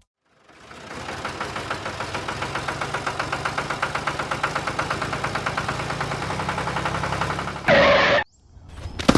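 A small engine running with a fast, even pulse, fading in at the start. Near the end a brief loud burst of noise cuts it off suddenly.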